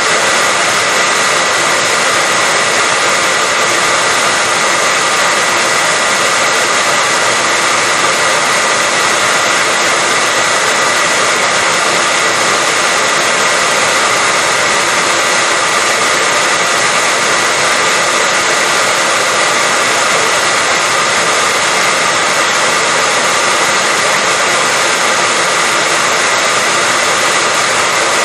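Hair dryer running continuously at a constant speed: a steady loud rush of air with a high whine, played as white noise to lull a baby to sleep.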